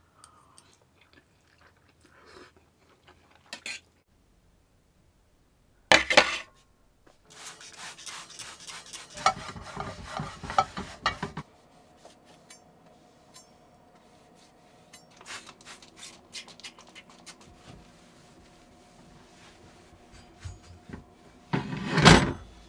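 Pots, dishes and utensils being handled: a sharp clack about six seconds in, then several seconds of scraping and rubbing against a pan. Later there is a faint steady hum, and another loud knock near the end.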